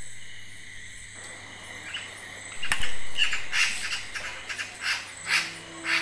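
A bird chirping, a quick series of short calls beginning about two seconds in. Sustained music notes come in near the end.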